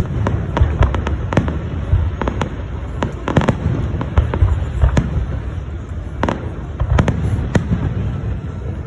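Fireworks going off: a rapid, irregular string of sharp bangs and cracks over a continuous low rumble of distant bursts.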